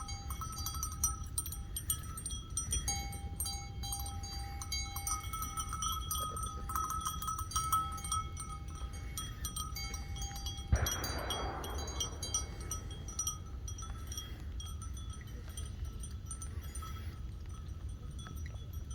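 Bells ringing in several pitches, coming and going in long steady tones over a low rumble. There is a short rustling rush a little past halfway.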